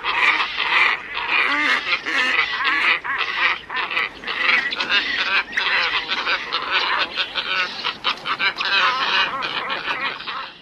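A flock of glossy ibises calling together in a dense, unbroken chorus of many overlapping calls.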